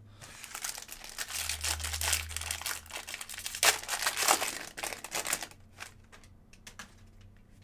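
Wrapper of a Bowman Draft Jumbo trading-card pack crinkling and tearing as it is opened, with one sharper rip a little past halfway. The crackling stops about two-thirds of the way through, leaving a few faint clicks.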